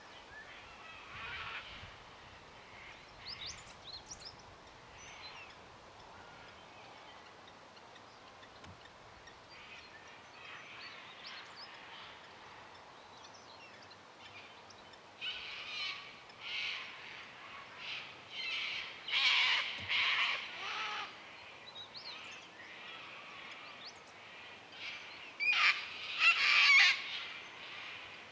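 Wild birds calling in open woodland: scattered chirps throughout, with loud, harsh calls in two clusters, about two-thirds of the way through and again near the end.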